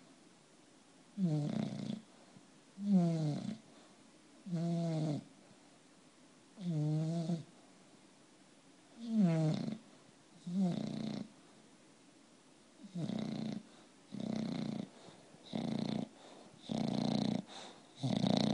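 English bulldog snoring, one snore every one and a half to two seconds, about eleven in all. The early snores carry a buzzing tone that wavers in pitch; toward the end they come closer together and sound rougher.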